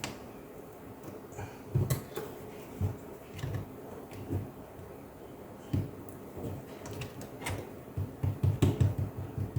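Light, scattered clicks and taps of laptop plastic parts being handled and pressed into place, ending in a quick run of taps, several a second.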